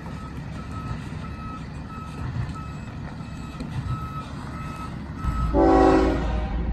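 A vehicle's backup alarm beeping steadily, a little under twice a second. Near the end a locomotive's air horn sounds a short, loud blast over a low engine rumble as a train approaches.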